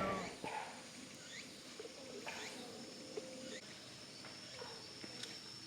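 Faint forest ambience: scattered short bird calls and a few low cooing notes, over a steady high insect trill.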